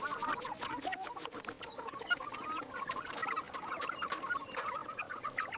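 A flock of chickens and chicks clucking and peeping: many short, overlapping calls.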